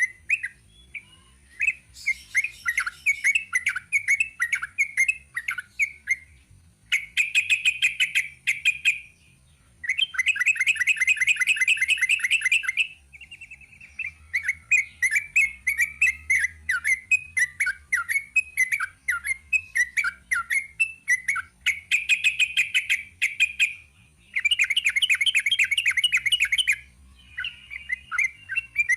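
Yellow-vented bulbul (trucuk) singing a long, rapid run of chirping notes. The run is broken by several dense, fast trills of two to three seconds each.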